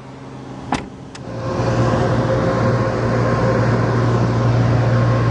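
A latch click, then the power trunk lid's electric motor running with a steady hum as the lid moves, stopping abruptly at the end of its travel.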